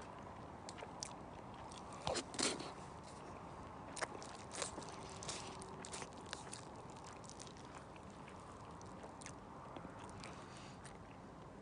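A person eating: crunching bites and chewing, with scattered sharp clicks over a steady low background hiss.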